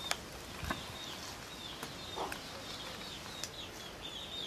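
Small birds chirping: short high calls repeating again and again, with a few faint clicks.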